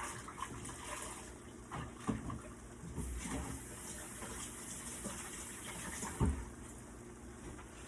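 Kitchen sink tap running while hands are washed under it, a steady splashing hiss. A low knock comes about six seconds in, and the water sound eases off after it.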